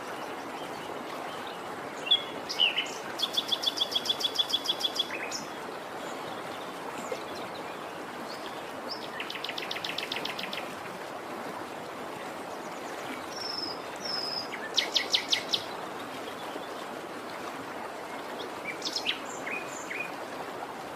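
Wild birds singing over a steady rushing background, with scattered short chirps and three bursts of rapid, evenly repeated trill notes.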